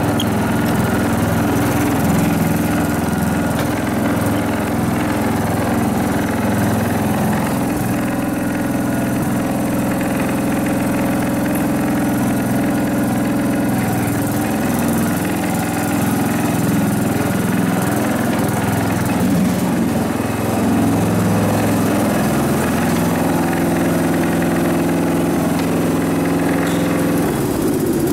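Riding lawn mower engine running steadily for a long stretch, fading out at the very end.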